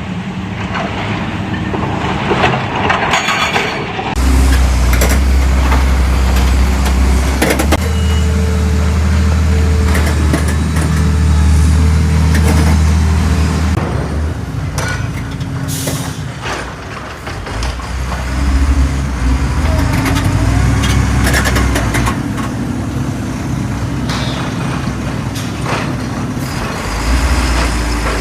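Heavy diesel dump truck engines running, a deep steady drone that changes abruptly several times as clips are cut together, with a few short sharp noises on top.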